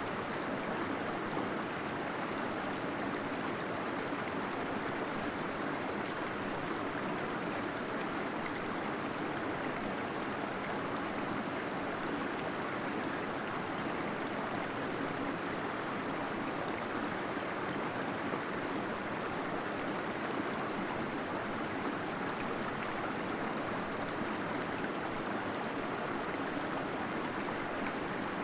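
Small waterfall splashing and gurgling steadily into a pool inside a cave, a constant even rush of water with no change.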